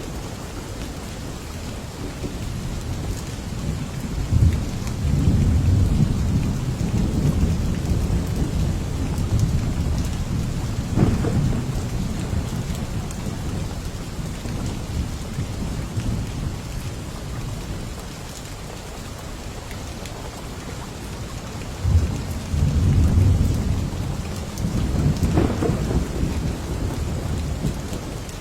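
Steady rain falling, with rolling thunder rumbling twice: a long rumble a few seconds in, and another with sharper cracks a little before the end.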